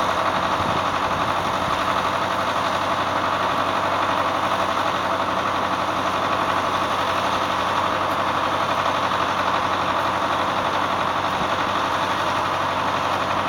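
Tractor engine idling steadily, a constant hum that does not change.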